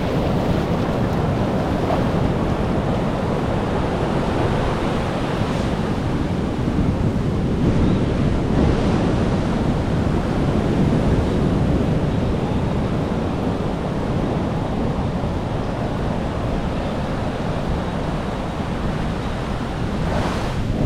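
Ocean surf washing onto a beach, a steady rush of waves that swells a little partway through, with wind buffeting the microphone.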